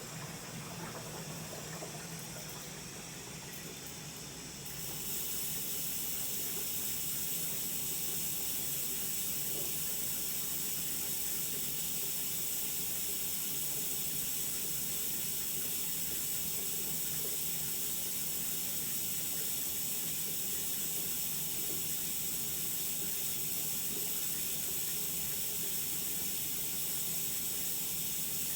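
Water pouring into a Sharp ES-S7B washing machine's tub as it fills, growing louder about five seconds in and then running steadily.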